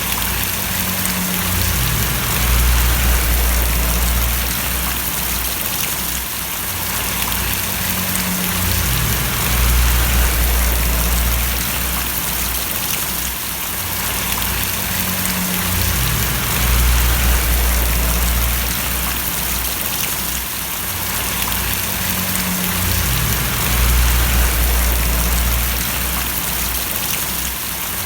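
Steady rain falling in a dense, even patter, with a low hum underneath that swells and eases about every seven seconds.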